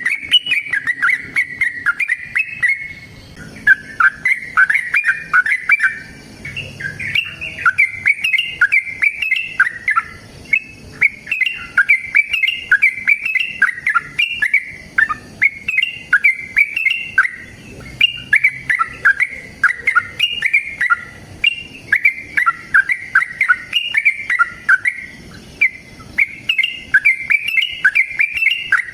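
Yellow-vented bulbul (trucukan) in full, fighting song: a long, unbroken run of quick bubbling, chattering phrases, one after another about every second.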